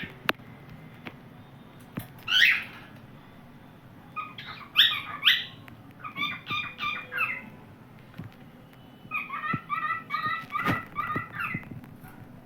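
Cockatiel singing: a single rising whistle, then three short phrases of quick repeated chirping notes, several a second. A few sharp clicks stand out, the loudest near the last phrase.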